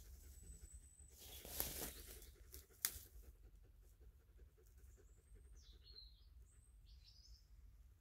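Faint forest birdsong: a thin high whistle at the start and a few short chirps about five to seven seconds in, with a brief rustle and a single sharp click about three seconds in.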